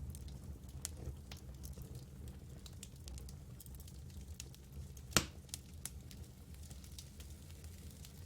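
Campfire crackling: scattered small snaps and ticks over a low steady rumble, with one louder sharp pop about five seconds in.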